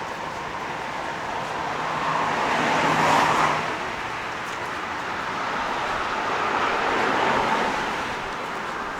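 City street traffic with two cars passing close by, the first loudest about three seconds in and the second swelling and fading around seven seconds in.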